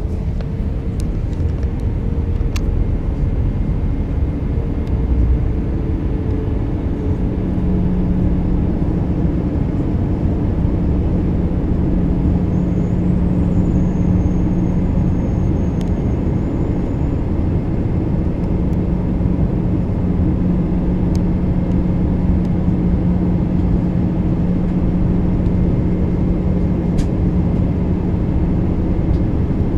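Airbus A319 airliner in flight, heard inside the passenger cabin: a steady, loud rush of airflow and engine drone, with a steady low hum joining about seven seconds in and a few faint clicks.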